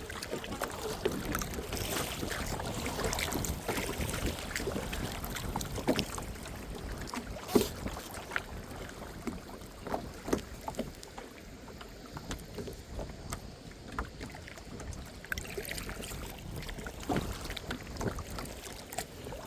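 Kayak being paddled: paddle strokes swishing and splashing in the water, with scattered knocks, the sharpest about seven and a half seconds in.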